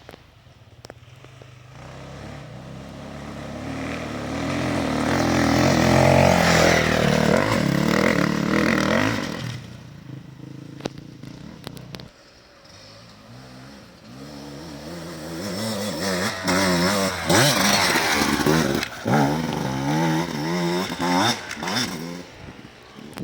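Enduro motorcycles riding past. One builds up to pass about six seconds in and fades away by about ten seconds. A second comes in near the middle, its engine revving up and down as it passes.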